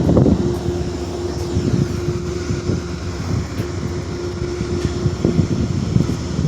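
Diesel locomotive running, a steady low rumble with a faint held tone over it.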